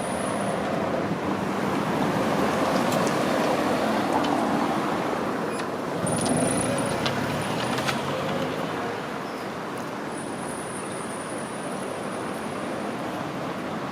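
Street traffic going by: a steady wash of vehicle noise, with a few short clicks and brief high-pitched squeals.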